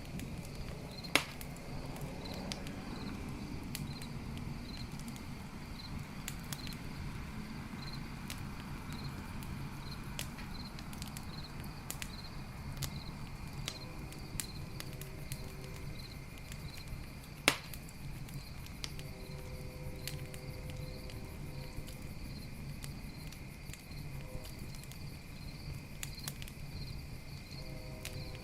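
Campfire burning: a steady low rumble of flames with frequent small crackles and two loud sharp pops, one about a second in and one a little past halfway. Crickets chirp in an even pulse throughout, with a steady high insect trill.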